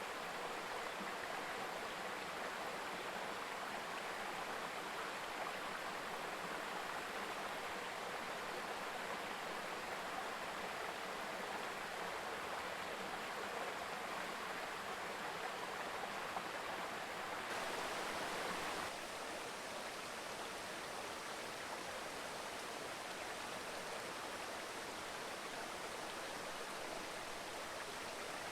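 Mountain river babbling steadily over stones. A little after halfway the water briefly grows louder and brighter, then settles a little quieter.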